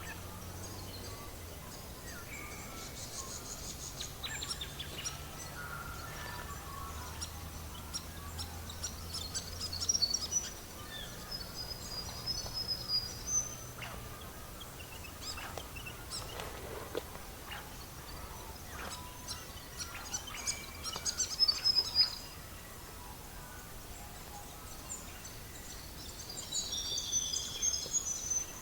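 Small songbirds chirping and trilling in short high phrases throughout, over the scattered snaps and crackles of a wood fire. The crackling comes in two louder flurries, about ten seconds in and again a little after twenty seconds.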